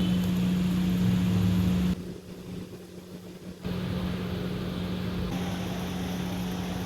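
A steady low hum with a constant pitch. It drops in level for a couple of seconds about two seconds in, then returns.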